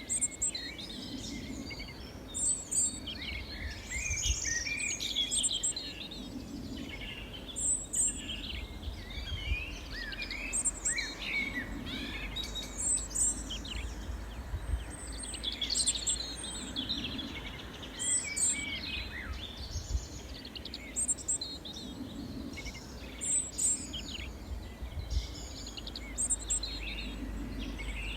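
Several small songbirds chirping and singing over one another in quick, varied phrases, with a high note repeating every few seconds, over a steady low background rumble.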